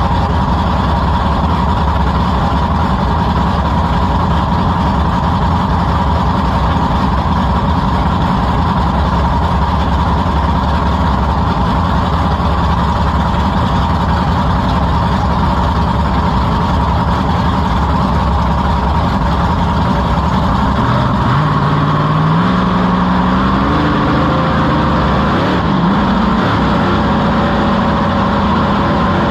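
Monster truck engine heard from on board, running steadily at idle; about two-thirds of the way in it revs up in a few rising steps.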